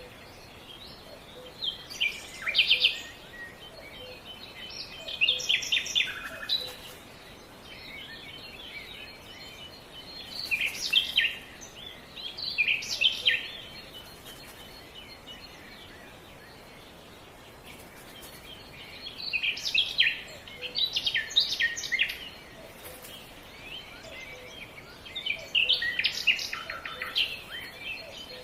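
A songbird singing short, rapid chirping phrases, about six of them a few seconds apart, over a steady faint outdoor hiss.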